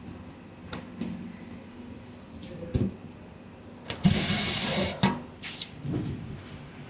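Sneaker-cleaning handling sounds: scattered light knocks and taps, with a loud hiss lasting about a second in the middle.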